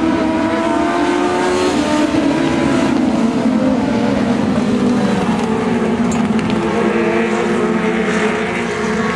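A pack of dwarf race cars running hard together, their high-revving motorcycle engines overlapping, with several engine pitches rising and falling.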